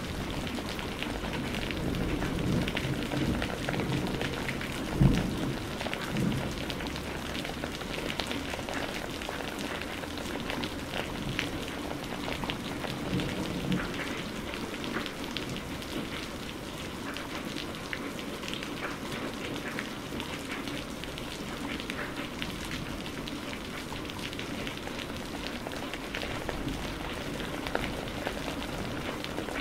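Steady rain falling, with many fine drop ticks throughout. A low rumble of thunder runs through the first several seconds, with a sharp, loud crack about five seconds in, then the rain carries on alone.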